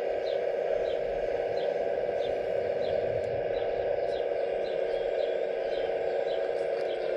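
An RC model excavator's hydraulic pump whining steadily, with short high chirps repeating over it about every two-thirds of a second.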